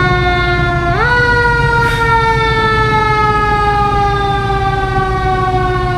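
A siren sounds steadily, its pitch jumping up about a second in and then slowly falling, over a low vehicle engine rumble.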